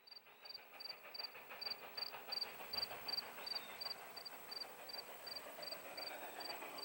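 Faint sound of a Strasburg Railroad steam train running, an uneven hissing, clattering rumble. Over it, insects chirp steadily at about three chirps a second.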